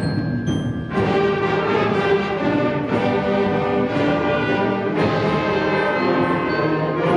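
Middle school concert band playing, brass to the fore, with the full band coming in about a second in and accented beats about once a second.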